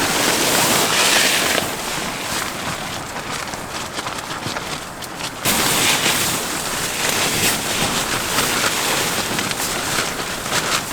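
Tarp tent flapping and crackling hard in strong gusty wind, with a sudden louder gust about five and a half seconds in.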